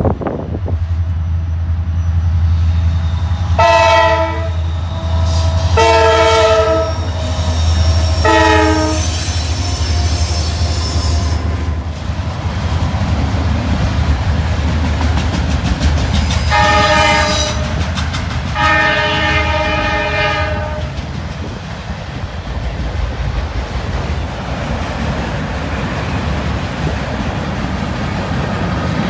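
Diesel locomotive air horn sounding five chord-like blasts: two long and one short in the first ten seconds, then two more later on. Under them a train rumbles steadily past, its wheels clacking over the rail joints.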